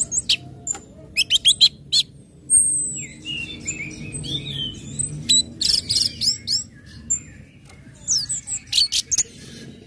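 Orange-headed thrush calling: clusters of sharp, high chips with whistled and warbled notes between them, over a low steady hum.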